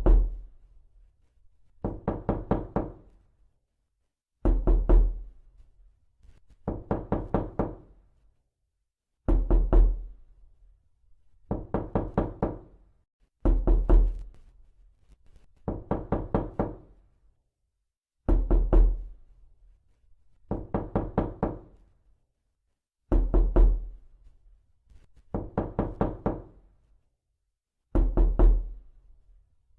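Repeated knocking in quick runs of about four or five knocks, a run roughly every two seconds. Heavier, deeper runs alternate with lighter ones.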